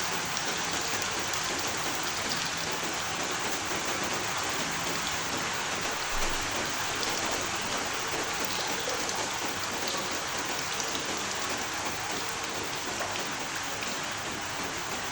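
Steady rain falling, an even hiss with scattered ticks of individual drops, and one brief low thump about six seconds in.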